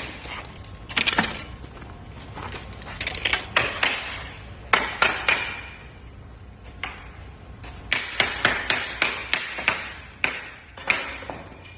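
Irregular clicks, clacks and knocks of small hard objects being handled, coming in quick clusters with short pauses between them.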